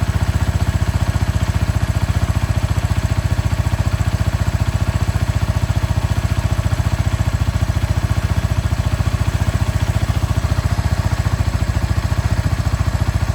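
Kawasaki Estrella RS's air-cooled 250 cc single-cylinder engine idling steadily, with an even, regular exhaust pulse.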